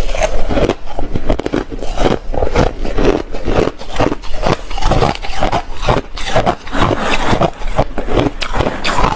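A person biting and chewing hard ice close to the microphone, with repeated loud crunches, about two a second.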